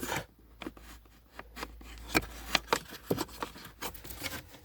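Irregular clicks, taps and rubbing of hands handling parts of the car's interior during the flap-motor repair, over a low steady hum.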